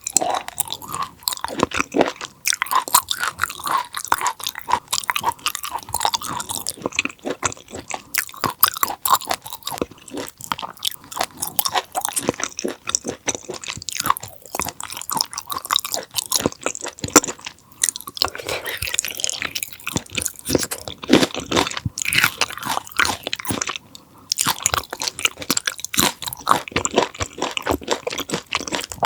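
Close-up chewing of raw conger eel sashimi: a dense, irregular run of sharp chewing clicks and bites with wet mouth sounds.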